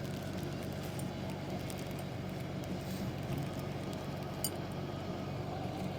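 Steady low hum of an idling engine, with a light metallic clink near the end.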